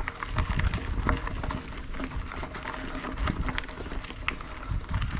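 Mountain bike on a rough, rocky trail: irregular clicks and rattles from the bike and its tyres over stones, with low rumbling thumps.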